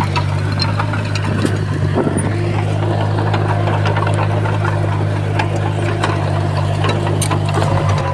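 Heavy earthmoving machine's diesel engine running steadily under load, with scattered clanks and knocks.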